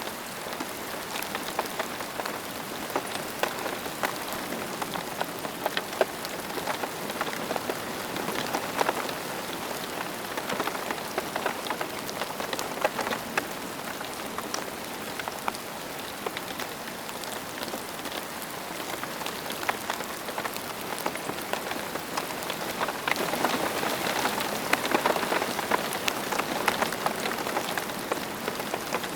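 Steady rain falling on a surface, with many individual drops pattering, swelling slightly about three-quarters of the way through.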